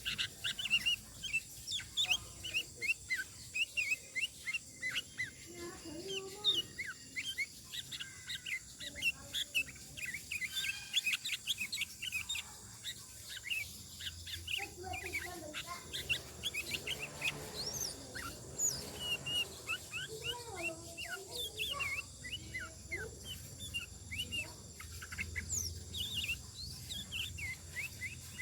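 Sooty-headed bulbul singing continuously in rapid runs of short, sharp chirps. Lower, chicken-like clucking phrases, part of the bird's mimicked repertoire, come in a few times.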